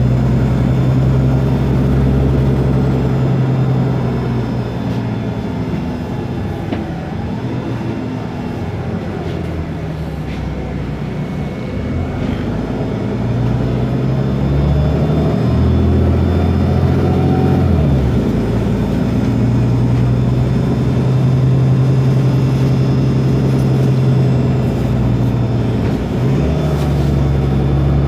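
Ford Ecotorq Euro 6 diesel engine of an Otokar Kent LF city bus running under way, with the Voith DIWA automatic gearbox. The engine note drops about three seconds in, climbs again in steps through the middle and changes once more near the end.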